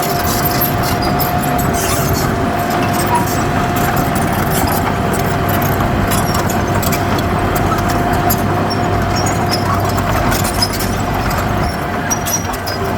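Heavy diesel earthmoving machinery running steadily, with a constant high whine over the engine and scattered light metallic clicks.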